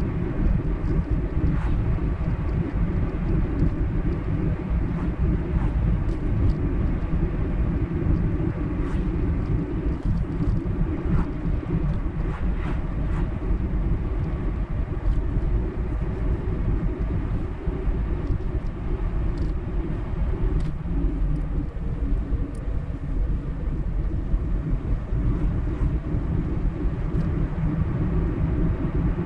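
A car driving at steady road speed: a steady low rumble of tyres and engine, with faint small ticks now and then.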